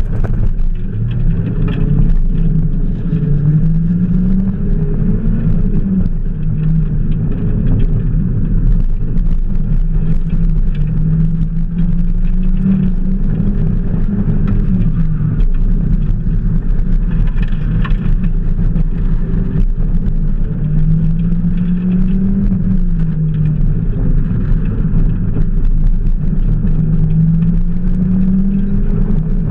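Mazda Miata's four-cylinder engine revving up and dropping back again and again as the open-top car is driven hard through an autocross course.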